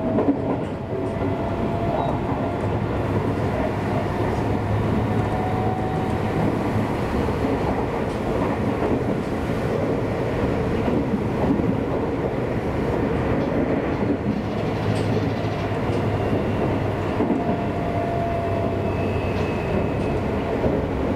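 Seibu Railway electric commuter train running steadily along the line, with a continuous rumble of wheels on rail. A faint whine comes and goes over it.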